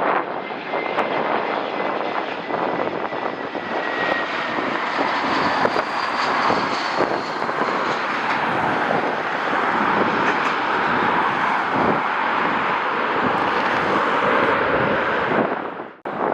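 Jet airliner's engines running close by, a steady loud rush with a faint whine that slides down in pitch during the first few seconds. The sound cuts off abruptly near the end.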